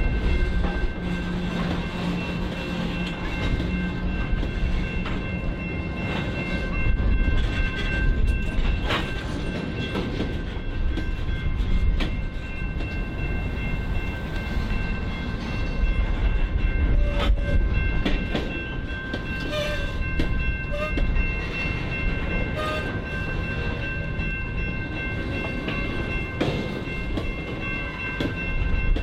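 Norfolk Southern freight train rolling past: a steady low rumble with wheels clicking over the rail joints, and steady high-pitched tones held throughout.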